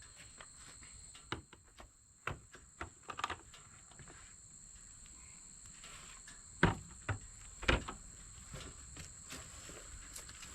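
Scattered knocks and clunks with a few footsteps, the two loudest knocks about two-thirds of the way through, over a faint steady high-pitched hum.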